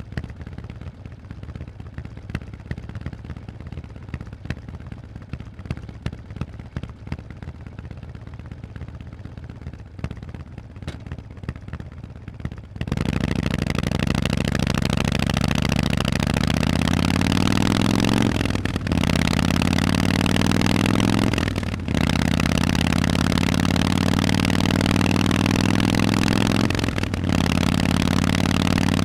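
Harley-Davidson Forty-Eight's V-twin through Vance & Hines exhausts: a low rumble with light clatter at first, then, a little under halfway through, the throttle opens suddenly. The engine pulls loudly, its pitch rising, with three short dips in sound as it shifts up through the gears.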